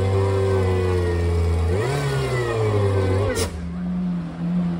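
A trials car's engine revs hard under load as it climbs a steep, muddy hill section. The revs swell about two seconds in, then drop sharply at about three and a half seconds, and the engine runs on lower and quieter.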